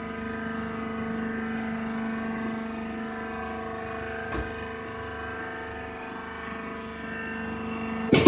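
Baling machine running with a steady mechanical hum, a faint click about halfway through and a sharp loud knock near the end.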